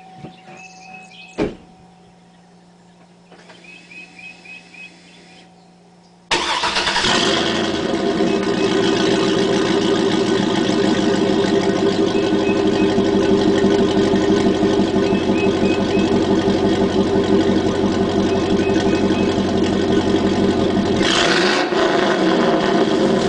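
A click and short runs of chiming beeps, then about six seconds in the 2005 Chevrolet Silverado SS's 6.0-litre V8 fires up and settles into a steady idle through high-flow catalytic converters and a Corsa Sport exhaust. There is a short burst of added noise near the end.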